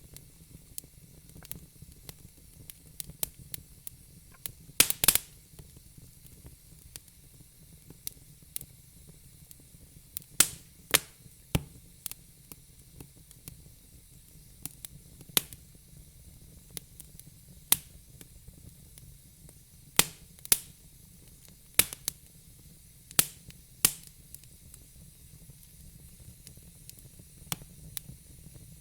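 Fire crackling: irregular sharp pops and snaps over a soft hiss, with a quick cluster of loud pops about five seconds in.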